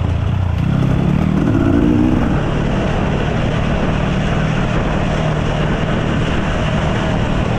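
Enduro dirt bike engine running while riding. The revs climb about half a second in, then ease back and hold steady from about two seconds in.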